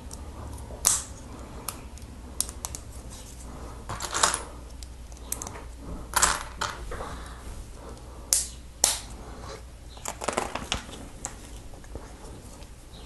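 Lego plastic plates being snapped together: sharp clicks a second or two apart, with lighter clicks between them.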